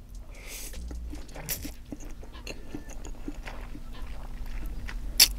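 Close-miked chewing of black bean noodles: irregular soft, wet mouth clicks and smacks, with a brief slurp near the start and a sharper click about five seconds in.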